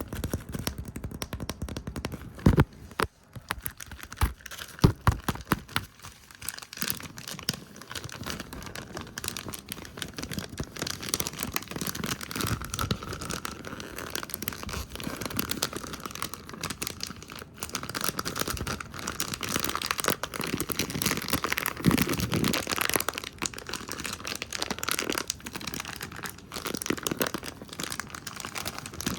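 Fast, aggressive ASMR brushing, tapping and hand sounds right against the microphone: a dense crackly, rustling scratching, with a few sharp taps about two to five seconds in.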